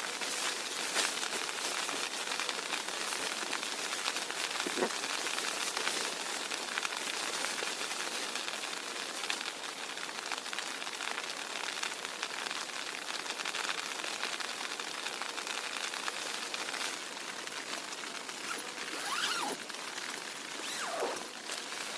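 Steady heavy rain: a dense, even patter of drops. A few brief sliding sounds rise above it, one about five seconds in and two near the end.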